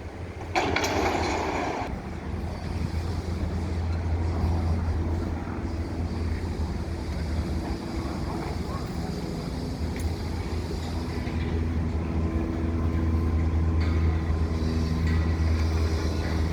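Heavy engines running with a steady low hum, the sound of machinery and traffic around a large construction site. A short loud burst of hissing noise comes about half a second in.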